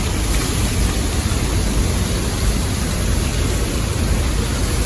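Steady roar of Niagara Falls' water pouring down, a dense even rushing noise with a heavy low rumble.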